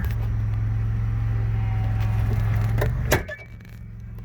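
An engine running at a steady speed with a low hum. About three seconds in there is a sharp clunk, and the engine sound drops away.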